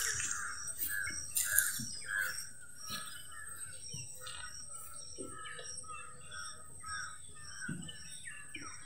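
Birds calling in a quick run of short chirps, about two a second, over a faint steady high-pitched whine.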